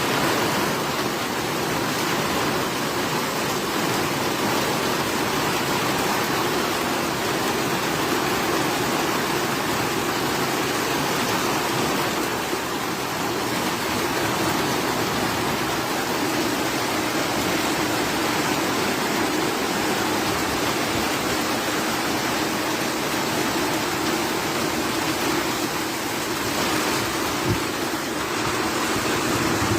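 Heavy rain falling steadily in a thunderstorm, an even hiss that holds without a break.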